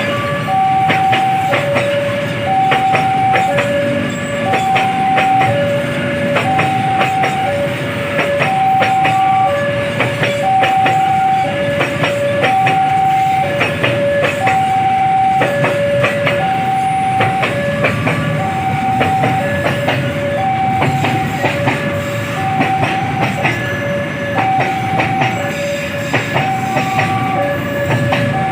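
Railway level-crossing warning alarm sounding a repeating high-low two-tone chime, about one tone a second, while a train passes with its wheels clattering over the rail joints.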